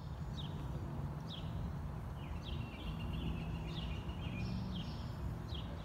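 Birds chirping outdoors: short chirps about once a second, some falling in pitch, with a brief run of quicker notes in the middle, over a steady low rumble.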